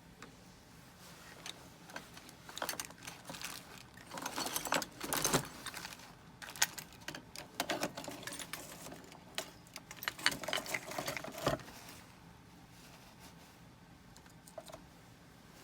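Quick clusters of light metallic clicks and clinks from small jeweller's hand tools working a gold earring, busiest in the middle, then a single click near the end.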